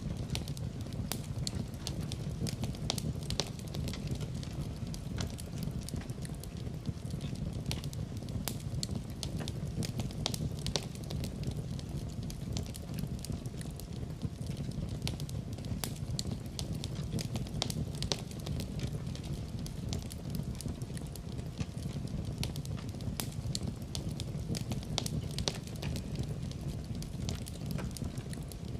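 Fireplace fire burning with a steady low rumble and frequent small crackles and pops from the wood.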